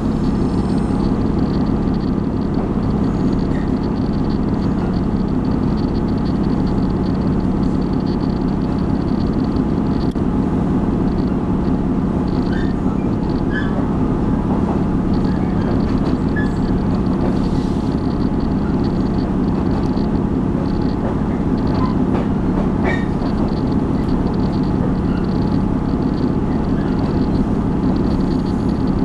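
Taiwan Railway train running steadily, heard from inside the carriage: an even, low rumble of wheels on the rails, with a few faint short squeaks.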